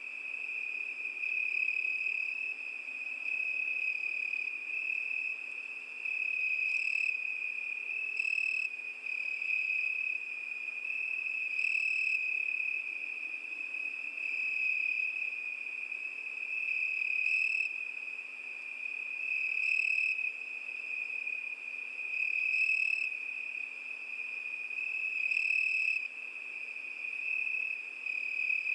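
Crickets chirping in a continuous high-pitched trill held on one pitch, swelling louder and fading back every few seconds.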